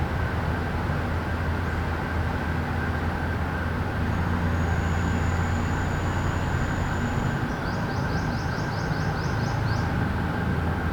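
Steady low hum of city traffic. About halfway through, a thin high whistle is held for about three seconds, then a quick run of about ten short, high, falling chirps.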